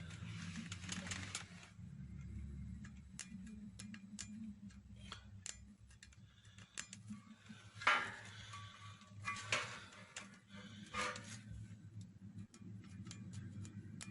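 Scattered light clicks and taps, a few louder ones about eight, nine and a half and eleven seconds in, over a faint steady low hum.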